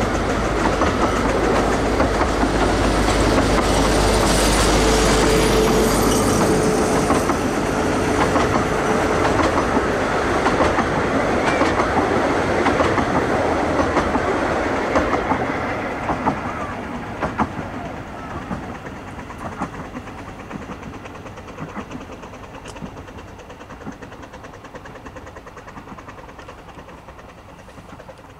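Passenger coaches of a 15-inch gauge train rolling past, wheels clacking over the rail joints. The rolling sound dies away over the second half as the train recedes.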